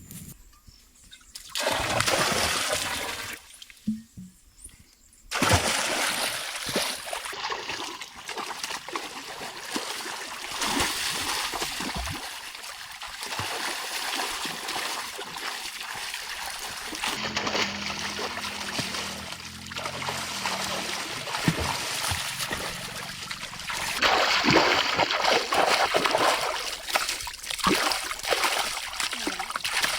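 Water splashing and trickling in a steady rush, broken by two short quiet gaps in the first few seconds.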